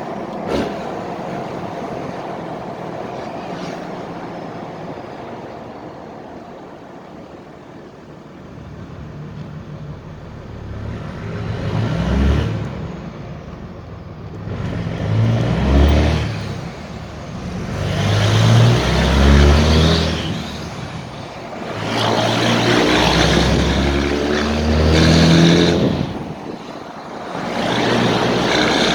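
Straight-piped 5.9-litre Cummins inline-six turbo diesel easing off at first, then pulling hard several times, rising in pitch on each pull, with short drops in between as the six-speed manual is shifted.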